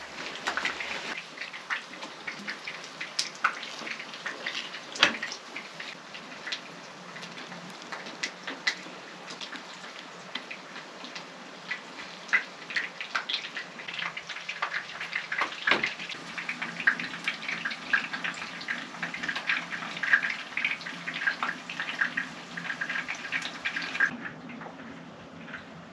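Rain falling, with a steady patter and many irregular drips and taps.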